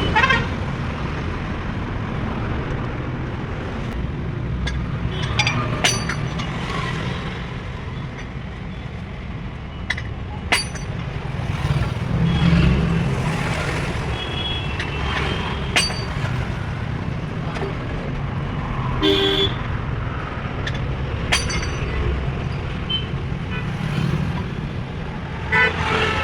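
An engine running steadily, with scattered metallic clicks and knocks over it and a short horn toot about 19 seconds in.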